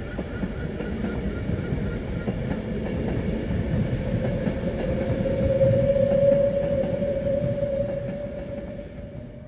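A train running past on the rails, its rumble swelling to a peak about six seconds in and then fading. A steady high tone grows stronger through the second half.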